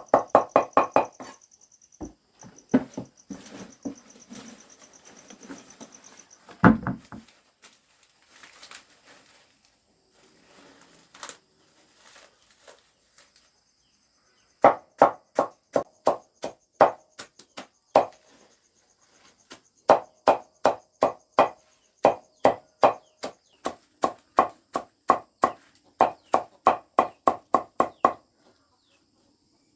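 Regular chopping strikes, about two a second, in long runs broken by short pauses, after some scattered knocks and clattering. A faint steady high insect buzz runs underneath.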